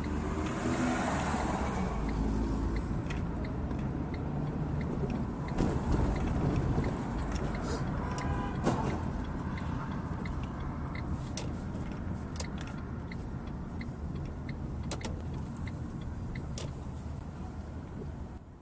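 Car driving, heard from inside the cabin: a steady low engine and road rumble with a few faint scattered clicks.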